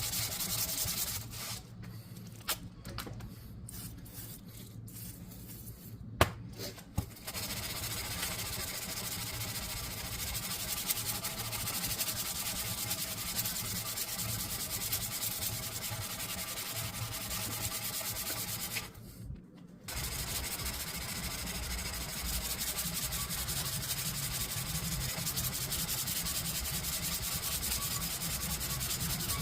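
Steady abrasive sanding, grit scraping against a surface, which thins out for several seconds near the start with a sharp click in the middle of that lull, then stops briefly about two-thirds of the way through before resuming.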